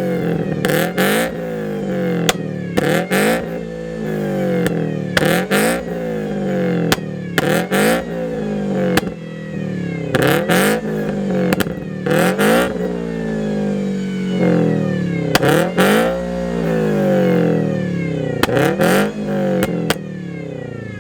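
A car engine revved over and over, about a dozen times, its pitch climbing quickly and falling back each time. Sharp cracks sound near the top of many of the revs.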